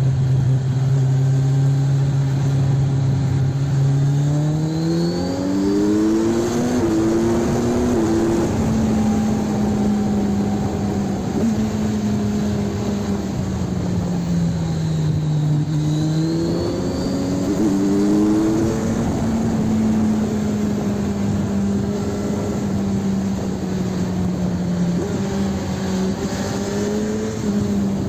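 Kawasaki Ninja 1000 SX inline-four running through an Arrow aftermarket exhaust while riding on the road. It holds a steady speed, then accelerates with a couple of gear changes about four to eight seconds in. It eases off around the middle and pulls up through the gears again.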